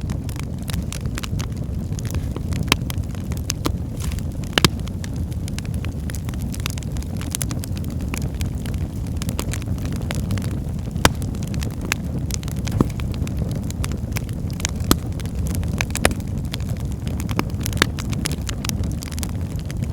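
Wood fire of burning logs in a fireplace: a steady low rumble of flames with frequent sharp crackles and pops scattered throughout.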